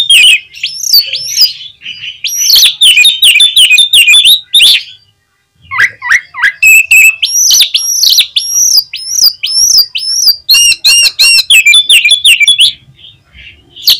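Oriental magpie-robin (kacer) singing a loud, fast run of varied whistles and chattering notes, in two bouts with a brief pause about five seconds in.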